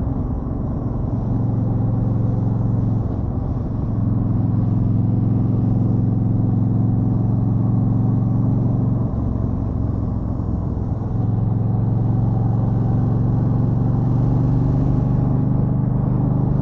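2013 Yamaha Stryker's V-twin engine running at road speed under way, a steady low note. The note breaks and picks up again about three seconds in, and again between nine and eleven seconds.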